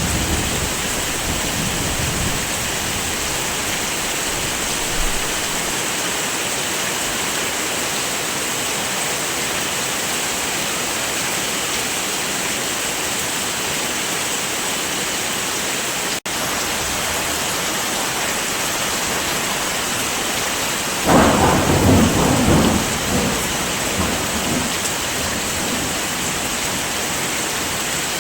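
Steady heavy rain, an even hiss of falling water. A clap of thunder breaks in about three-quarters of the way through and rumbles away over a few seconds. Just past the middle the sound briefly drops out.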